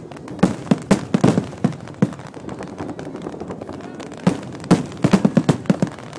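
Fireworks and firecrackers going off in two irregular flurries of sharp bangs, the first about half a second in and the second about four seconds in, over a steady background rumble.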